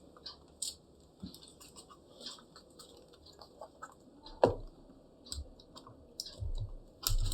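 Scattered light clicks and taps of a laptop's plastic casing and parts being handled, with one louder knock about four and a half seconds in and a few more knocks near the end.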